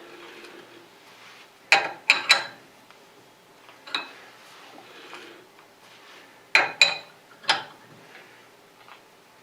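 Sharp metal clinks and clanks of a chuck key working a lathe's four-jaw chuck as the jaws are tightened down. Three clinks in quick succession come about two seconds in, one near four seconds, and three more near seven seconds.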